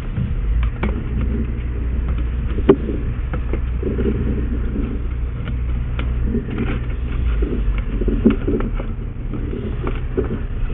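Steady low mechanical rumble, like a running engine or motor, with scattered clicks and knocks; one sharper knock comes about two and a half seconds in.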